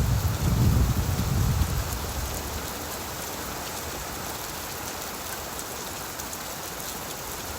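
Steady rain falling on leaves, an even patter, with a low rumble that fades out in the first two seconds.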